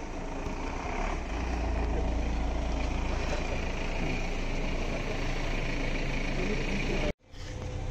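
A car engine idling, a steady low rumble, with a brief total dropout near the end.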